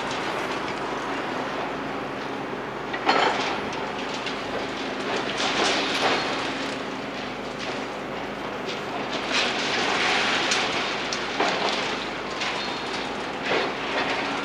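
Demolition machinery at work: an engine's steady hum under continuous crunching, scraping and clattering of broken concrete and rubble, with a sharp knock about three seconds in.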